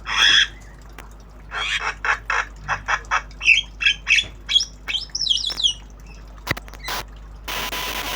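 Javan myna calling: one harsh squawk at the start, then a quick run of short harsh calls and chattering notes with quick sweeps in pitch. A click and a brief burst of hiss-like noise come near the end.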